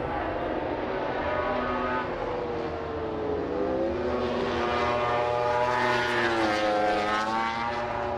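MotoGP race motorcycle engines on track, several at once, their pitch sweeping down and up as they change speed and pass; loudest in the second half.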